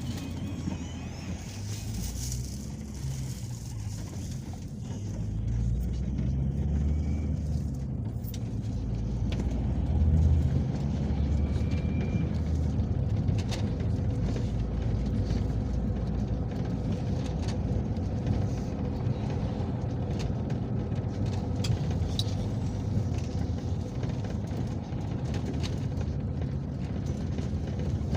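Peugeot Boxer minibus driving, heard from inside: a steady low engine and road rumble that grows louder from about five seconds in to a peak around ten seconds, with a few light rattles.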